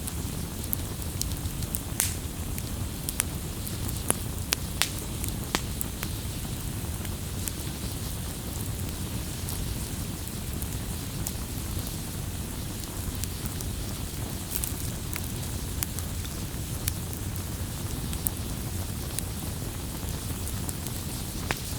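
Campfire burning with a steady low rush and scattered sharp wood crackles and pops, a few louder ones about two, four and five seconds in.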